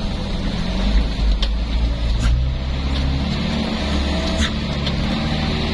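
Truck engine running steadily while driving, with a few sharp knocks and rattles from the body.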